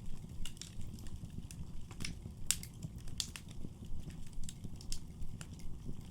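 Wood fire burning in a fireplace: a steady low rumble of the flames with irregular sharp crackles and pops from the burning logs, one of the louder pops about two and a half seconds in.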